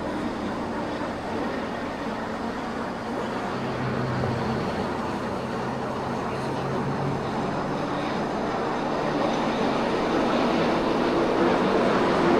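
Car driving on city streets: steady road and engine noise, gradually getting louder toward the end.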